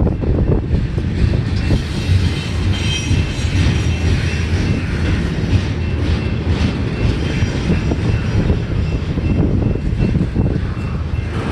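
Cars of a mixed intermodal freight train rolling past, the wheels rumbling and clattering steadily with a faint, steady high squeal. Heavy wind buffets the microphone over it.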